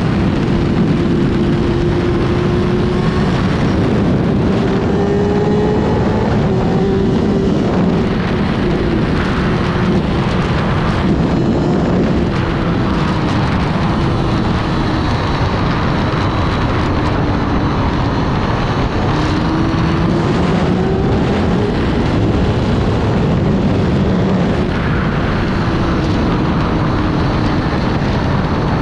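A 2004 Kawasaki ZX-6R's inline-four engine running under way, its pitch climbing and dropping again and again as it is ridden. Wind rushes over the microphone throughout.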